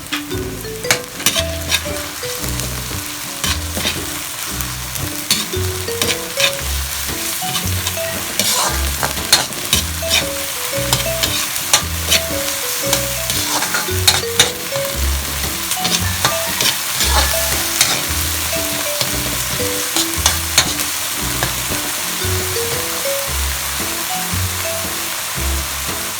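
Food frying in hot oil in a pan, sizzling steadily. It is stirred, with frequent clicks and scrapes of the utensil against the pan.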